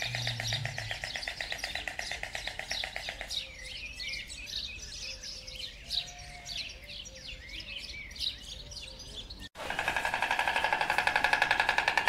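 Small birds chirping and twittering, many short calls over a steady, fast pulsing background. About nine and a half seconds in, it cuts abruptly to a different, louder rhythmic pulsing sound.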